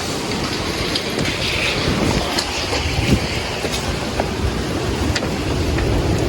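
Strong storm wind blowing in gusts and buffeting the microphone, with a scattering of sharp ticks and knocks through it.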